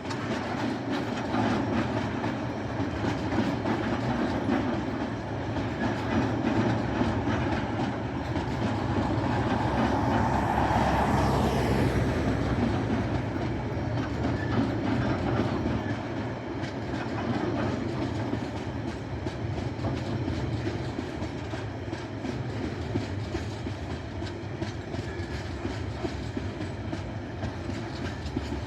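TasRail freight train's wagons rolling past, the wheels clicking steadily over the rail joints with a continuous rumble. It is loudest about ten to twelve seconds in and then eases off a little.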